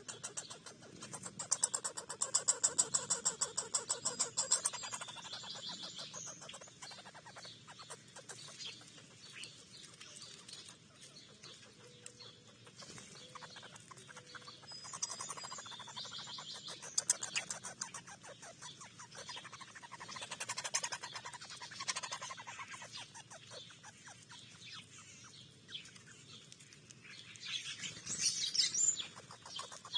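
Several wild birds calling and chirping, with many short calls overlapping and a louder run of chirps near the end.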